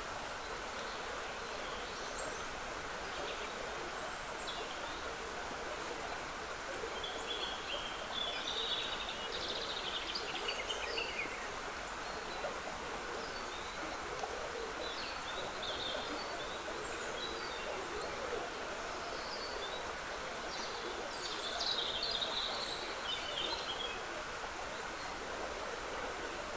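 Steady trickle of running water in a small woodland stream, with songbirds singing short scattered phrases over it. The song is busiest about a third of the way in and again near the end.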